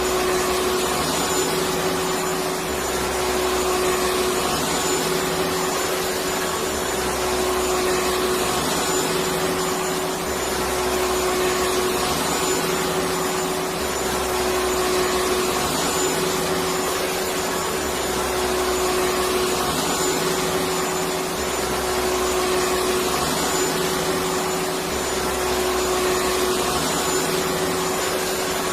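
Electric vacuum cleaner running steadily: a constant motor whine over a rushing hiss, with a low hum underneath that shifts slightly every couple of seconds.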